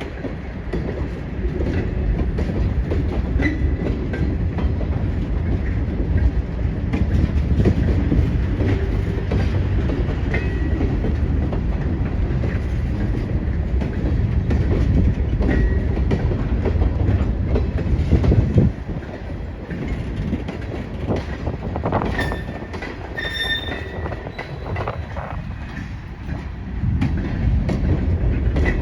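Freight train rolling past on jointed track: a steady rumble with wheels clicking over the rail joints and short high squeals now and then. It gets quieter about two-thirds of the way through.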